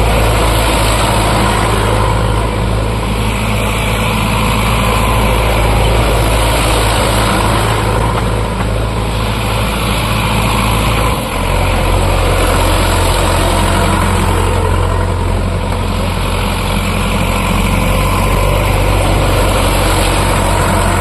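Sonalika DI 750 tractor's diesel engine running steadily, with its engine note changing about halfway through.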